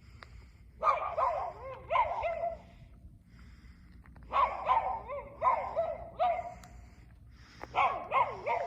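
A dog barking and yipping in three bouts, each a string of high, wavering yelps lasting one to two seconds, with quieter gaps between.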